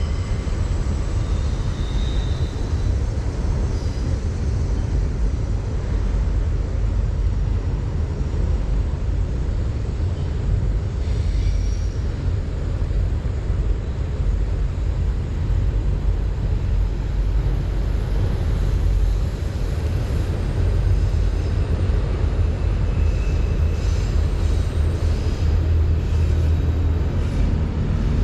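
Steady rush of flowing creek water with a heavy low rumble, unchanging throughout, with a few faint high chirps near the end.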